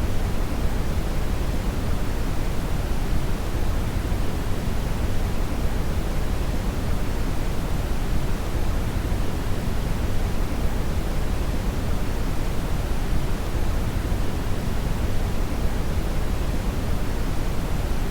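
Brown (red) noise: a steady, even hiss weighted heavily toward the low end, a deep rumbling rush with no tones or events.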